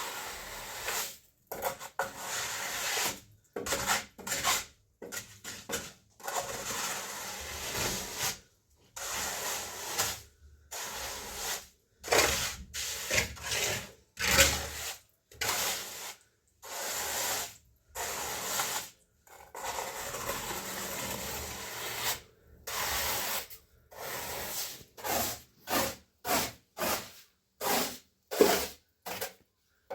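A hand tool scraping and rubbing over a rough surface in repeated strokes, broken every second or two by short, abrupt silent gaps.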